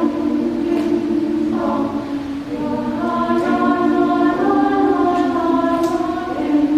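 Women's choir singing held chords in several parts, with a few brief sibilant consonants.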